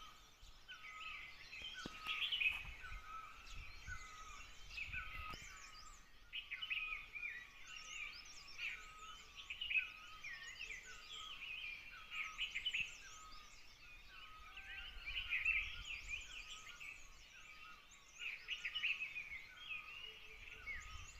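A flock of small birds chirping together: a dense, continuous chorus of short, quick chirps, with a shorter repeated lower note running underneath.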